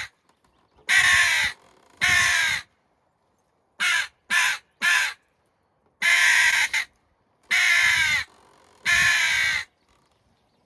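Hand-held crow call blown to imitate hooded crow caws, the tongue rolled in the mouth to give the rasp. Two caws, a quick run of three short ones, then three longer caws, each falling slightly in pitch.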